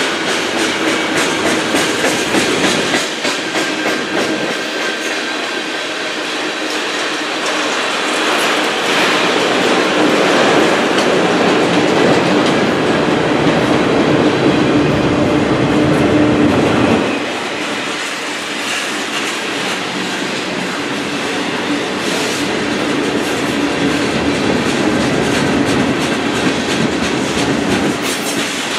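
CN freight train cars rolling past, wheels clicking and clacking on the rails in a continuous rush of noise. Louder through the middle, dropping suddenly about seventeen seconds in.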